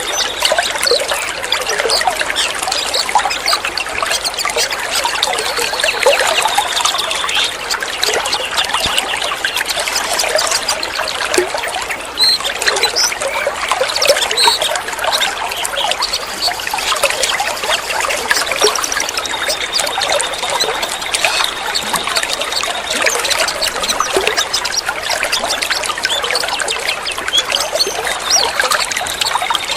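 Continuous trickling, gurgling water, with short bird chirps scattered over it and a thin held whistle now and then.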